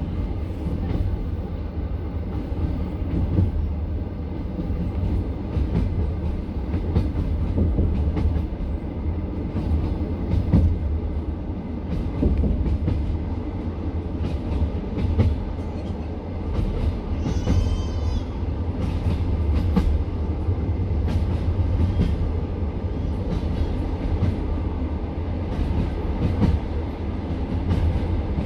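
Passenger train carriage running on the line: a steady low rumble with the wheels knocking over the rails. About 17 seconds in there is a brief high-pitched squeal.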